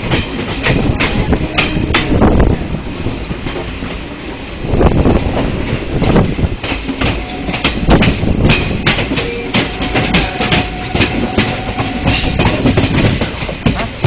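Train running along the track, heard from aboard: a steady rumble with the wheels clicking and clattering irregularly over rail joints.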